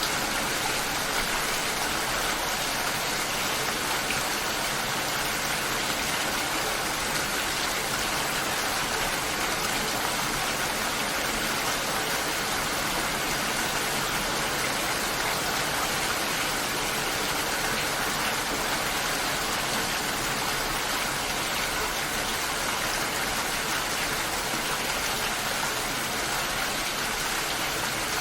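Steady, even rainfall: a continuous hiss of rain with no breaks.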